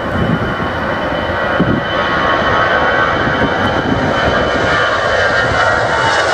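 Airliner's engines running at an airport, a loud steady rumble with a high whine, the upper range building from about two seconds in.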